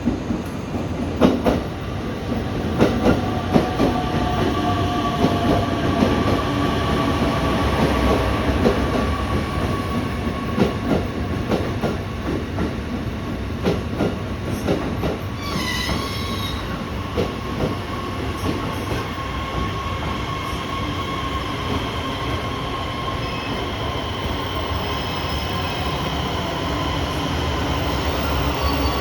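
501-series electric train pulling into a platform and braking to a stop. Wheels click over rail joints, the clicks thinning out as it slows, under a steady motor whine that slowly drops in pitch. A brief high squeal comes about halfway through.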